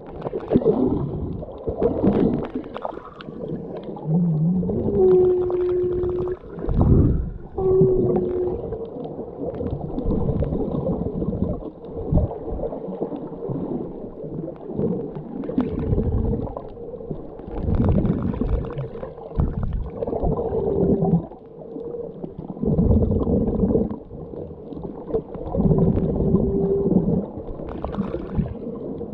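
Muffled underwater sound recorded while snorkeling: water sloshing and gurgling in uneven swells, with short low hums that come and go every few seconds.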